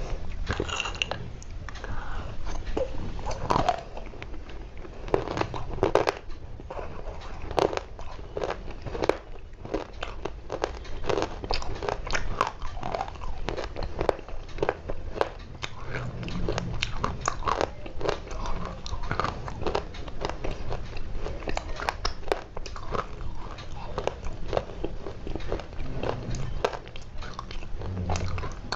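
Dry clay being bitten and chewed, a continuous run of crisp crunches and crackles close to the microphone.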